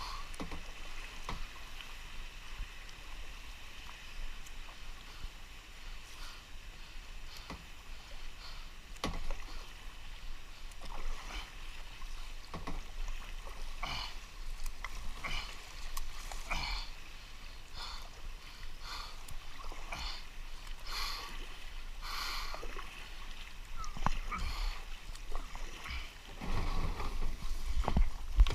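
Kayak paddle strokes dipping and splashing in a flooded creek, with irregular splashes every second or two over the steady sound of moving water. A low rumble builds near the end.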